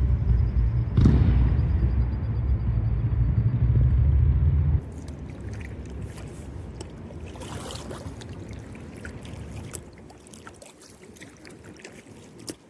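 A loud low rumble with a sharp knock about a second in, which stops abruptly about five seconds in; after that, kayak paddle splashes and water dripping and trickling, with small clicks.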